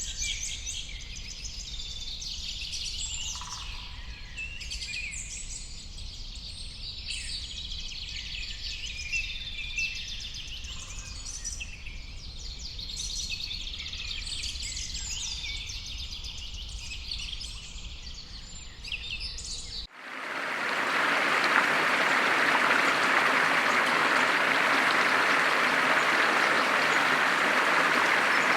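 Many birds singing and chirping together over a faint low rumble. About two-thirds of the way through, it cuts abruptly to a louder, steady rushing noise with no birdsong.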